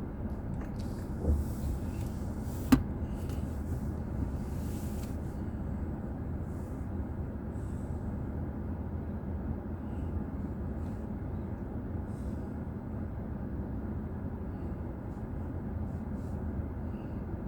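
Steady low road and engine rumble of a car driving, picked up inside the cabin by a dashboard drive recorder. Two short sharp knocks come about a second and a half apart near the start.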